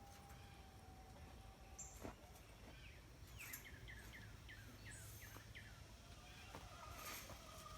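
A bird singing faintly: a run of about eight quick chirps, each sweeping downward, starting a few seconds in. Scattered light clicks and a faint steady whine sit under it.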